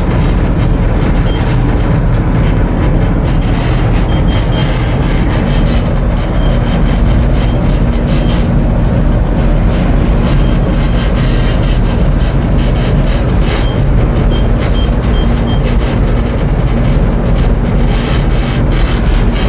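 Diesel machinery of a coastal cargo ship running steadily under way, a loud, unbroken low rumble. A steady hum joins it about six seconds in.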